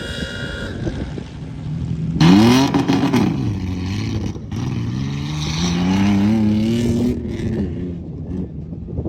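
Truck engine revving hard, with a sharp jump in pitch about two seconds in, then climbing steadily as it pulls under load before easing off near the end.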